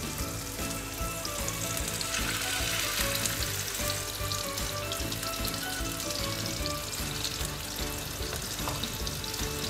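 Chicken seekh kababs sizzling as they shallow-fry in hot desi ghee in a frying pan on low heat, the sizzle a little stronger about two seconds in. A background music melody plays underneath.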